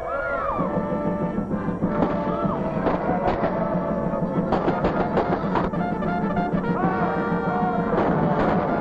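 Orchestral film score music with brass and timpani; a low sustained note enters about half a second in and percussion strikes join from about two seconds in.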